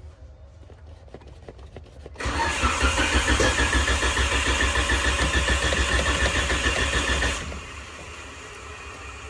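Car's starter motor cranking the engine in a fast, even rhythm for about five seconds, starting about two seconds in and stopping abruptly; the car is one that won't start.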